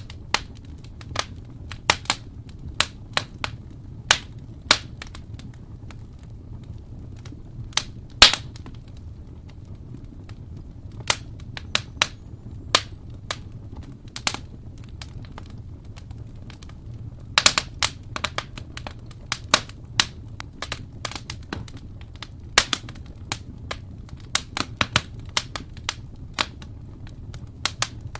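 Wood fire crackling in a fireplace: irregular sharp pops and snaps over a steady low rumble of the flames, with one loud pop about eight seconds in and a quick run of snaps a little past halfway.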